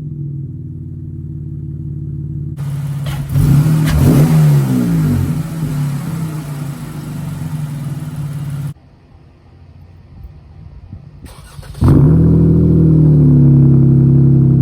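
Dodge Challenger SXT's 3.6-litre V6 engine revving through its exhaust, in several edited takes: quick revs up and down a few seconds in, a quieter stretch, then a loud rev about twelve seconds in that holds high.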